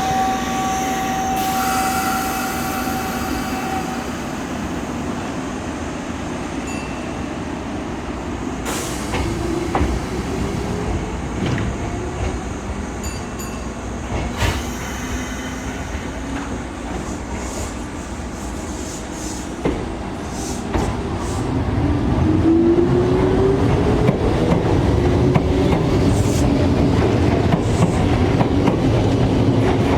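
Kintetsu electric train running at the station, its traction motor whine rising in pitch as it gathers speed, growing louder about two-thirds of the way through. Wheels clatter over rail joints, with scattered clicks.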